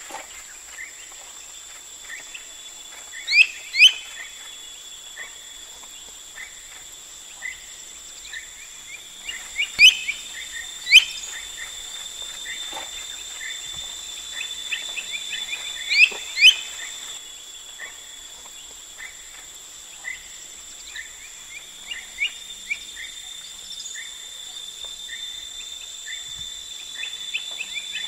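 Birds calling: a short chirp repeated about once a second, and louder, sharp rising calls in twos around three, ten and sixteen seconds in, over a steady high insect drone.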